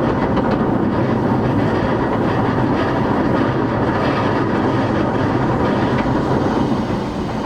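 Running sound of an E233-8000 series electric train heard inside the passenger car: a steady rumble of the wheels on the rails, with occasional faint clicks as it passes rail joints.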